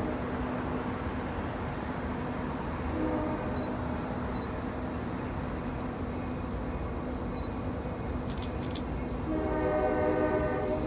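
Diesel switcher locomotive sounding its horn: a short blast about three seconds in and a longer blast starting near the end, over the steady running of the locomotive.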